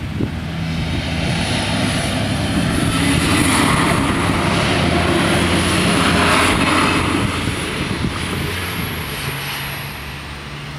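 Siemens Desiro diesel railcar passing over a level crossing: engine drone and wheel rush swell to a peak in the middle, then fade near the end. A thin high whine rides along with the passage.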